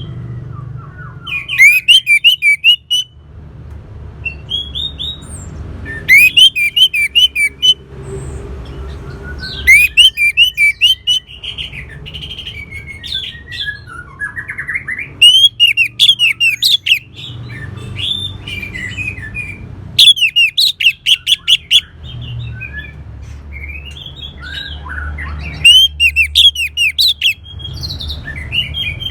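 Orange-headed thrush singing: loud bursts of quick, varied high notes come every four to five seconds, with softer warbling between them. A steady low hum runs underneath.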